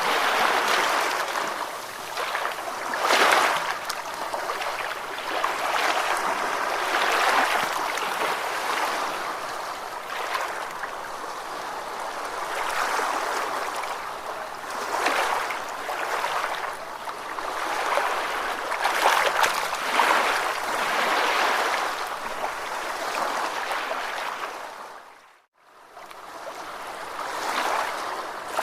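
Ocean waves washing in and drawing back, swelling and easing every few seconds. Near the end the sound fades out briefly to silence and comes back.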